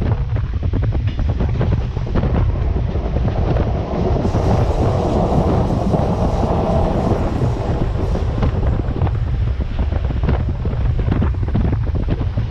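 Wind buffeting the microphone over the running noise of an RER D commuter train in motion, with a louder rushing swell in the middle.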